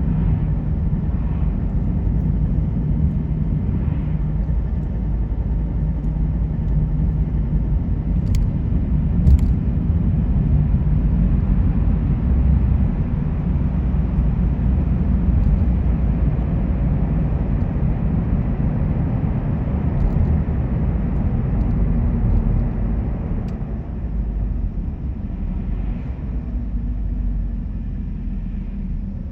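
Steady low rumble of a car driving, engine and tyre noise on the road, with a couple of short clicks about eight and nine seconds in; it eases slightly near the end.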